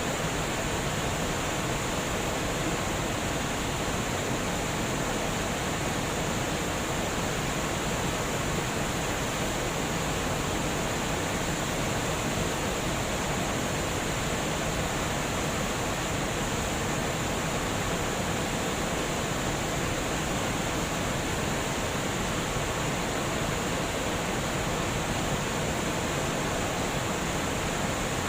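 Water rushing steadily over a dam, an even unbroken roar of noise with no changes.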